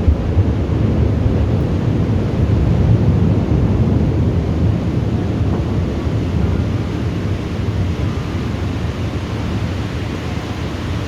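Thunderstorm: a steady hiss of heavy rain under a deep rumble that swells a few seconds in and slowly dies away.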